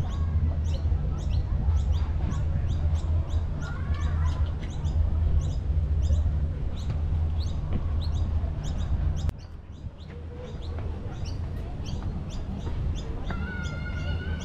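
Small birds chirping busily, many quick high chirps in a row over a steady low rumble. The background drops suddenly about nine seconds in, and near the end a held, even-pitched call with overtones starts.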